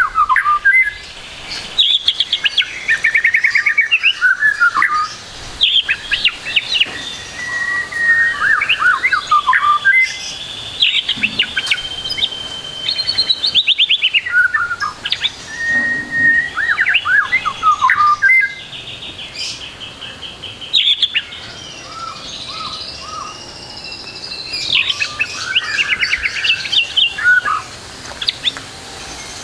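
White-rumped shama (murai batu) singing a varied, mimicry-filled song: rapid trills, quick runs of repeated notes and clear whistled notes in phrase after phrase, with short pauses between them.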